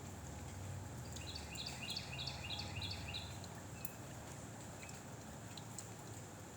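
Low wind noise on the microphone. About a second in, a bird calls a quick run of about eight repeated two-part notes.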